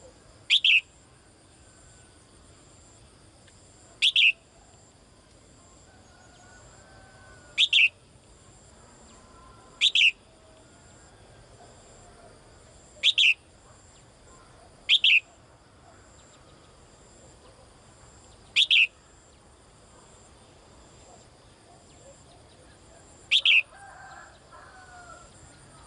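Caged female songbird giving a short, sharp call that sweeps downward in pitch, eight times at intervals of two to four seconds. She is calling to a male.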